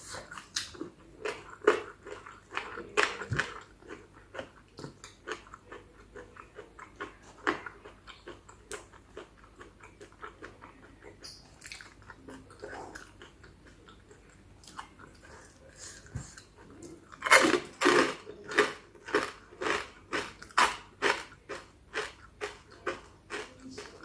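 Close-miked chewing and biting of spicy chicken feet salad: wet mouth clicks and crunches all through, with a run of louder, quicker crunches about two-thirds of the way in.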